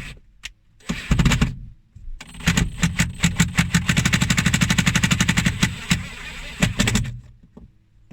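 Impact driver running a fastener home on a low torque setting: a short burst about a second in, then about five seconds of rapid hammering that stops near the end.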